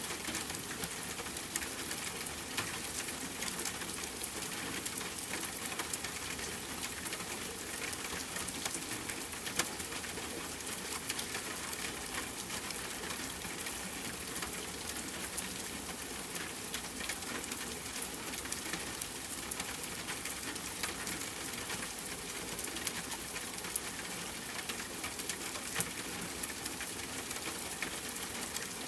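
Steady rain falling, a continuous hiss dotted with many small drop ticks and an occasional louder drip.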